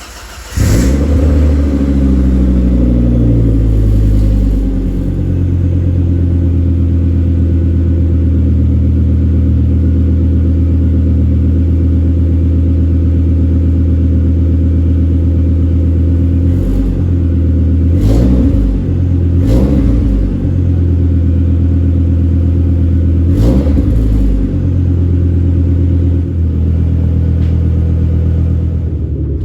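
Volvo 740's swapped-in T5 turbocharged five-cylinder engine running through a 3-inch exhaust with two mufflers: it catches, idles fast and settles to a steady idle after a few seconds. Later it is given a few short revs, each rising and falling back to idle.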